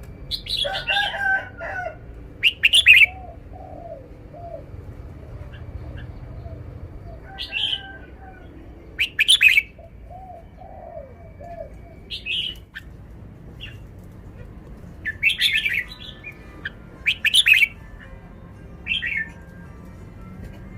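Caged red-whiskered bulbul singing: about eight short, loud, clear song phrases spaced a second or more apart, with softer low warbling notes in between.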